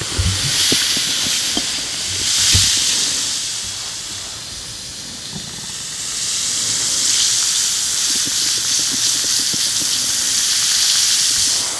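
Bath bomb fizzing in water: a steady hiss of bubbles that swells, eases off for a few seconds, then builds again. A couple of soft low thumps come in the first few seconds.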